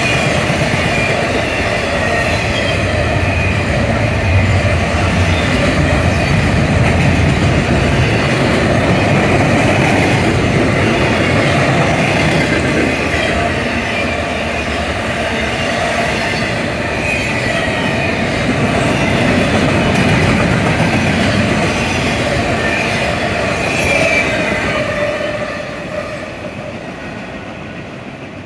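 A train rolling past on the rails, with a steady rumble and wheels squealing against the rails; the sound fades away in the last few seconds.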